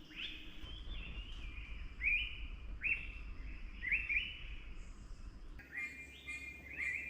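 Wild birds calling in a morning chorus: a short sweeping call repeats about once a second, and other, steadier calls take over near the end.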